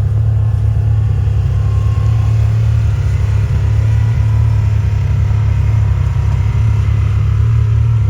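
Side-by-side UTV engine running steadily, a deep even rumble with no change in pace.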